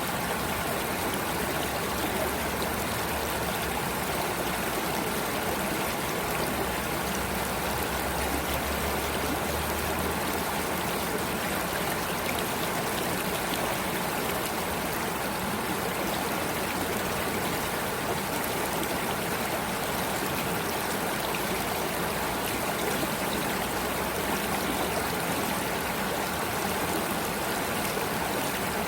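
Stream water flowing and trickling steadily, an even rushing sound without a break.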